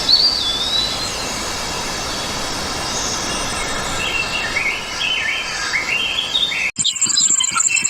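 Forest birds calling over a steady hiss of background noise: a gliding whistle at the start, then warbling, rising phrases later on. Near the end the sound cuts off abruptly and gives way to high-pitched squeaky chirps over a thin steady whine.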